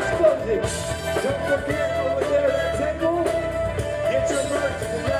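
A live band playing dance music, with singing over it.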